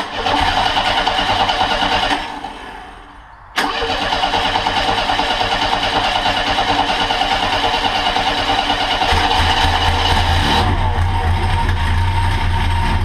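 Monster trike engine being cranked over by its starter on a freshly rebuilt carburetor, not yet catching. It cranks for about two seconds, stops, then starts cranking again abruptly and keeps turning over, with a deeper hum joining in near the end.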